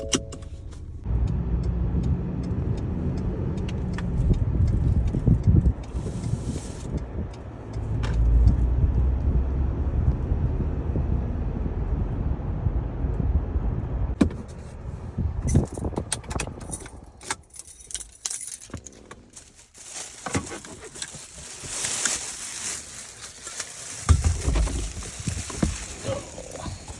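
Low, steady rumble of a car under way, followed about fifteen seconds in by a cluster of clicks and the jangle of keys.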